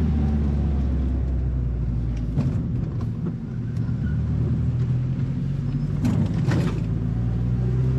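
Mazda Miata four-cylinder engine running with road noise as the car drives, heard from inside the cabin; the engine note drops about two and a half seconds in and then climbs again. A few short knocks come through, about two and a half seconds in and twice around six seconds.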